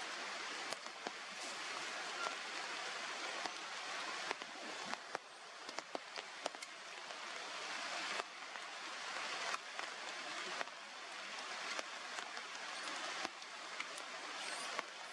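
Steady outdoor hiss with many irregular light ticks and taps scattered through it.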